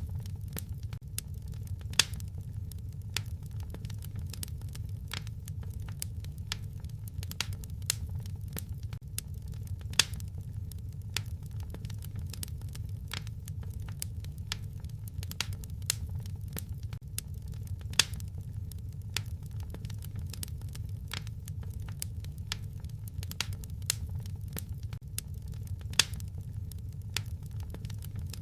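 Wood fire in a fireplace crackling, with frequent sharp pops over a low steady rumble; a louder pop comes about every eight seconds.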